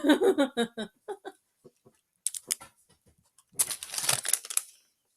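Plastic snack packaging being handled: crinkling and rustling with scattered clicks, the densest crinkle coming a little past the middle. A brief murmur of voice at the start.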